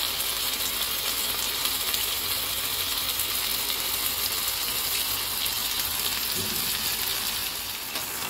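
Seasoned chicken breasts sizzling steadily in hot oil in a nonstick frying pan, with a constant fine crackle.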